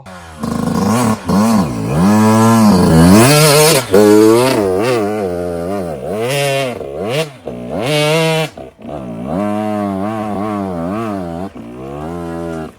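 Yamaha YZ85's two-stroke single-cylinder engine revving up and down over and over as the dirt bike is ridden, loudest in the first four seconds and again about eight seconds in.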